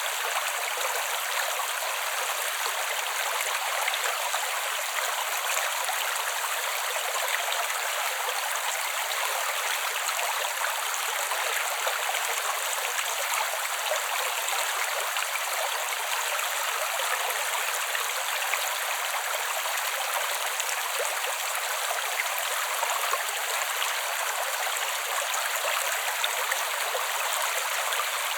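A creek's water flowing steadily and evenly, a light, hissy rush with no low rumble and no breaks.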